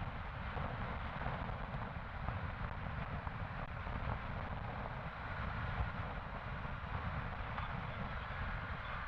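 Motorcycle riding along at steady speed: a constant mix of engine, wind and road noise with no distinct events.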